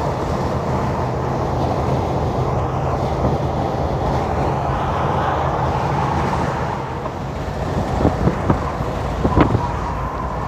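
Semi truck driving on the highway: steady engine drone and road noise, with a few sharp clicks or knocks about eight to nine seconds in.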